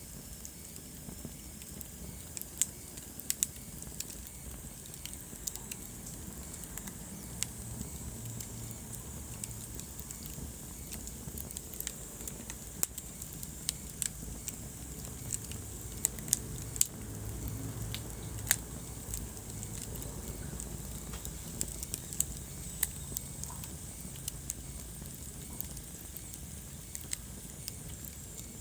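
Wood fire burning in a fireplace: irregular sharp crackles and pops, a few louder ones, over a steady low rumble of the flames.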